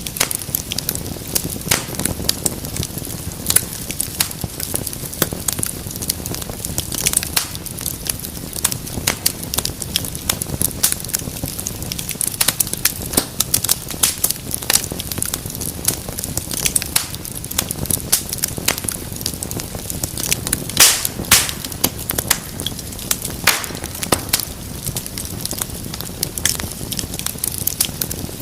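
Wood fire in a fireplace burning steadily, with a low rumble of flame and frequent sharp crackles and pops. A few louder snaps come about two-thirds of the way through.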